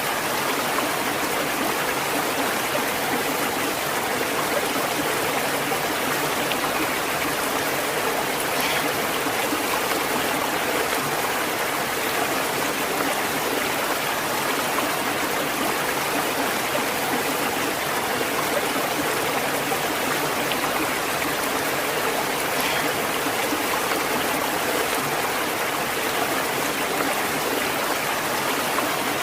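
Stream water flowing steadily, a continuous rushing and babbling with no change in level.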